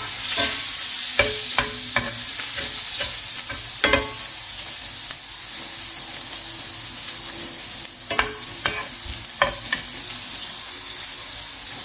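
Onion and garlic frying in butter and oil, with a steady sizzle. A utensil stirring them clinks against the pan several times, in a few quick strikes near the start and again later.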